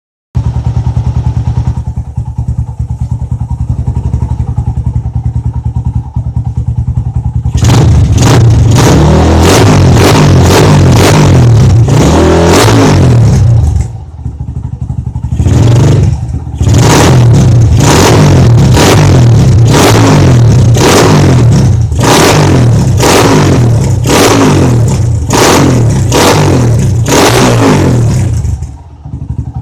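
Yamaha Scorpio single-cylinder four-stroke motorcycle engine idling, then revved hard again and again from about seven seconds in, with a short drop back near the middle and a return to idle near the end.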